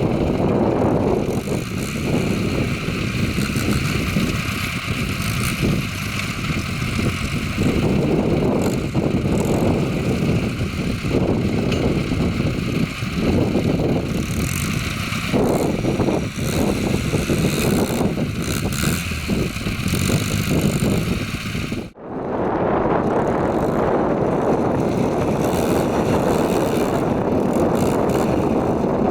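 Tractor engine running steadily. The sound breaks off sharply for a moment about two-thirds of the way through, then carries on.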